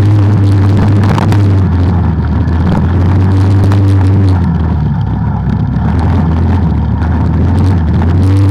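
Off-road vehicle engine running under way on a trail, heard from on board. Its pitch drops about four seconds in as the throttle eases and climbs again near the end, with scattered knocks and rattles over the rough ground.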